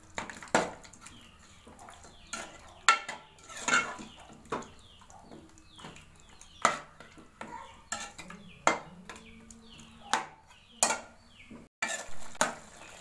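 A spoon stirring chicken and yogurt in a karahi: irregular scrapes and knocks against the pan, about one a second.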